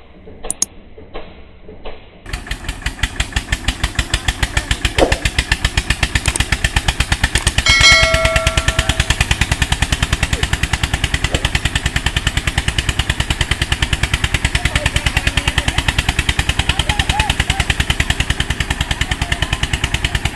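Tractor diesel engine running with a fast, even thudding beat. A horn sounds for about a second and a half around eight seconds in.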